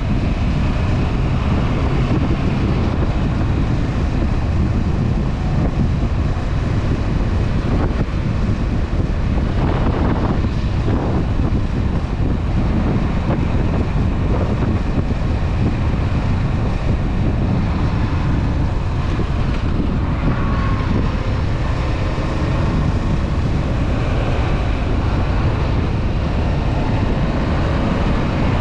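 Honda CB500F parallel-twin engine running steadily under way, with wind rushing over the camera microphone.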